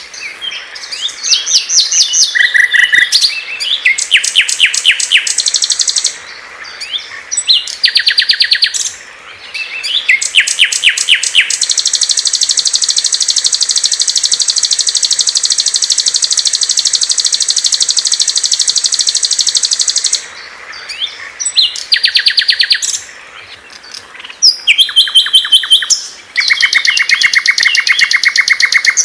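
Small songbirds singing: a quick succession of loud, high, rapid chirping trills broken by short pauses, with one long unbroken high trill lasting about eight seconds in the middle.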